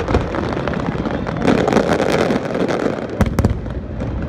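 Aerial fireworks going off over a continuous low rumble. About midway a dense stretch of rapid crackling breaks out, and two sharp bangs follow in quick succession near the end.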